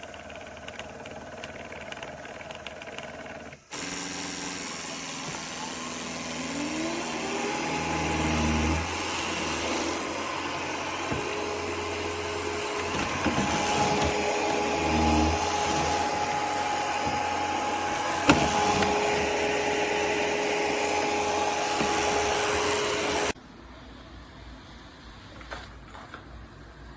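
ECOVACS Deebot T50 Omni robot vacuum system running loudly with a whooshing rush of suction and a motor whine that rises in pitch, then holds steady. The whine comes in suddenly a few seconds in and cuts off sharply near the end.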